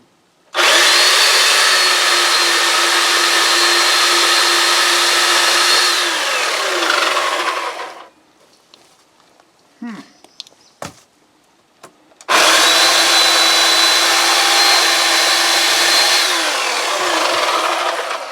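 Electric chainsaw running in two long bursts, about seven and six seconds, each at a steady pitch that then winds down as the motor coasts to a stop. A few light knocks fall in the gap between them.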